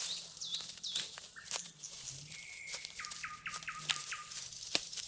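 Forest birds calling: a couple of short falling chirps, then a quick run of about five repeated notes, with a few sharp clicks and knocks in between.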